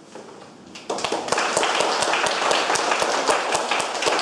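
Audience applauding, starting suddenly about a second in after a short quiet.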